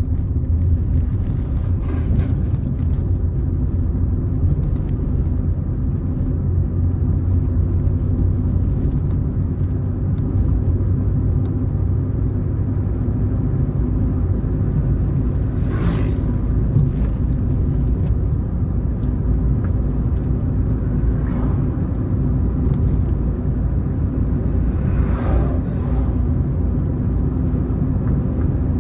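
A car driving along a road: a steady low rumble of engine and tyre noise, with two brief higher swells, one about halfway through and one later on.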